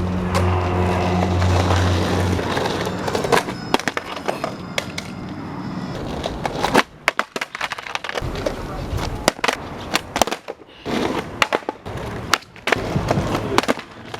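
Skateboard wheels rolling on pavement, broken by repeated sharp clacks of the board: tail pops, landings and the deck hitting the ground. A steady low hum runs for the first two seconds.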